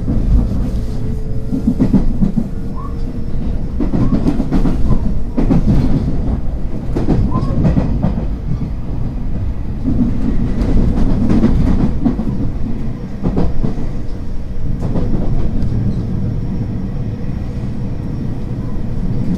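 JR West 225 series 100-subseries electric train running at speed, heard from inside the passenger car: a steady low rumble, with the wheels clicking over rail joints at uneven intervals.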